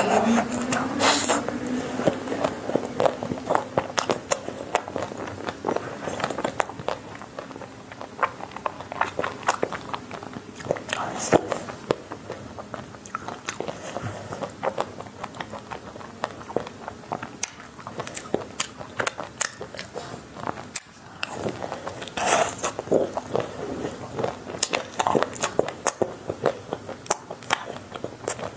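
Close-miked chewing of a chocolate-coated ice cream bar: the crisp chocolate shell with its nut pieces crackling and crunching in the mouth as a run of many short clicks, with louder clusters of bites now and then.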